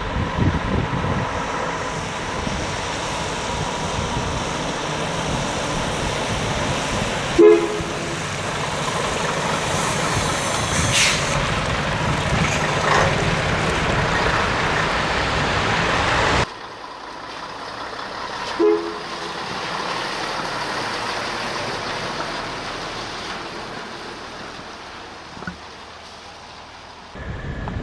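Scania truck running on the road with steady engine and road noise, and two short two-tone horn toots, one about a quarter of the way in and one about two-thirds in. The noise drops abruptly just past halfway.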